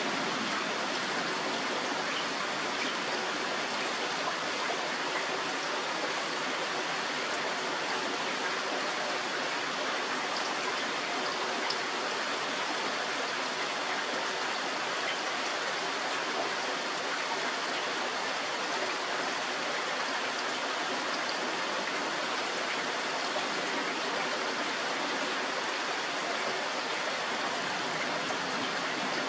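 Steady thunderstorm rain, an even hiss with no thunder claps.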